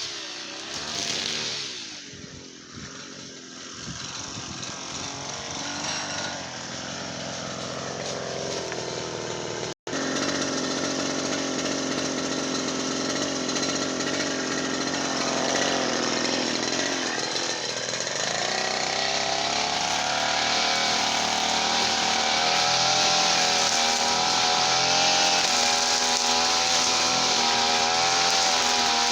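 Small two-stroke engine, likely the brush cutter's, running throughout. Its speed sags early on, climbs back, dips once more midway and then holds steady at high revs.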